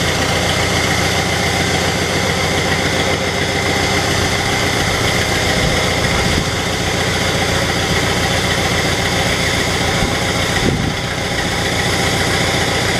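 Ruston diesel engine idling steadily.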